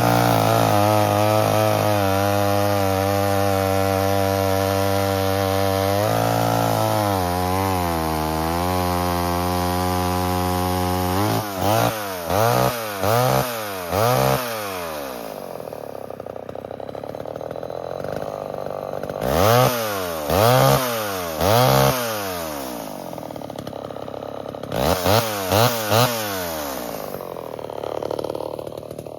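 1978 Homelite XL12 two-stroke chainsaw running at high revs for about ten seconds, the pitch sagging and recovering partway through, then idling between several quick throttle blips. The saw is running and revving cleanly after years of sitting.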